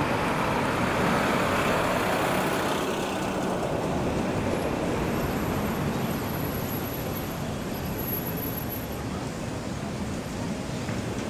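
Radio-controlled car driving over pavement, a steady rolling rumble from its tyres and motor picked up by the camera riding on it, with a thin high whine through the middle.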